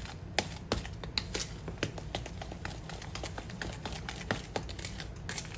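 Cornbread batter being stirred in a bowl, the stirring utensil clicking and tapping irregularly against the bowl, several times a second.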